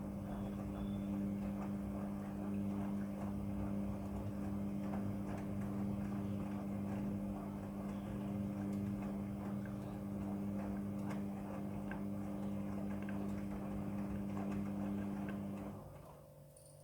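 Midea front-loading washing machine running a wash: the drum motor hums steadily while the tumbling load gives a busy patter of small clicks and splashes. The drum stops near the end.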